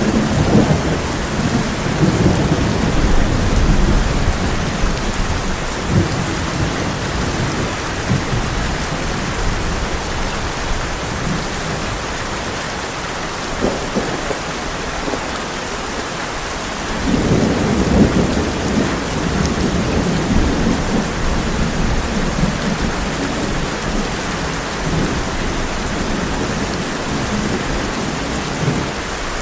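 Heavy rain pouring steadily on a tin roof, with rolling thunder rumbling twice, at the start and again about two-thirds of the way through.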